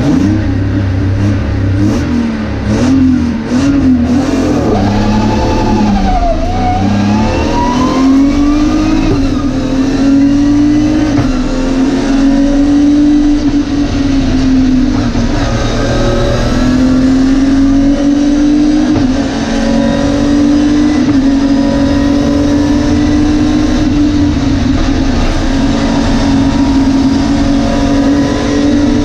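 BMW E30 rally car's engine, heard from inside the cabin. It runs low for the first couple of seconds, then revs climb with a wavering pitch over the next several seconds. After that it is held high and pulling hard, the pitch rising and dipping briefly a few times.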